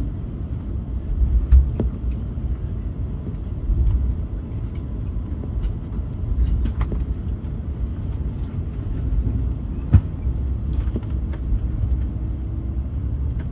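Low steady rumble inside the cabin of an Airbus A220-300 during pushback, with a few short knocks, the sharpest about one and a half seconds in and about ten seconds in.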